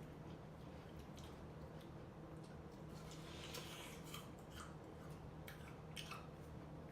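Faint, wet eating sounds of someone chewing juicy fruit, with scattered small clicks and smacks.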